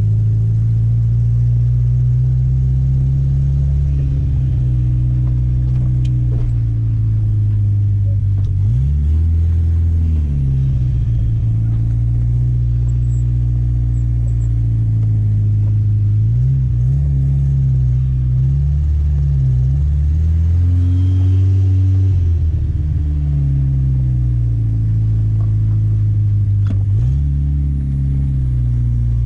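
Turbocharged Chevette four-cylinder engine running, its pitch falling and rising again several times as the revs change.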